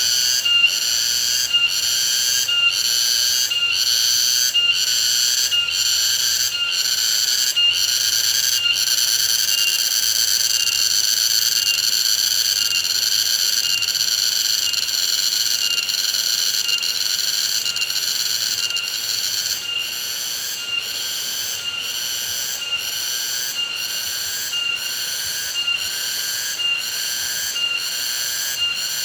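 High-pitched insect chorus pulsing about one and a half times a second. About a third of the way in the pulses merge into a steady shrill buzz, and near two-thirds the pulsing returns.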